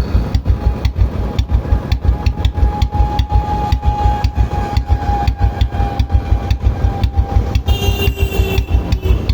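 Royal Enfield Bullet's single-cylinder engine running at a steady idle, an even train of low thumps several times a second, during a carbon-cleaning job. A thin steady whine sits over it, with higher tones joining near the end.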